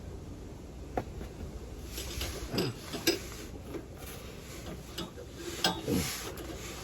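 Small metal and rubber parts of a sway bar end link kit clinking and knocking as they are handled and fitted together, with a couple of short squeaks of rubber bushings being pushed into place.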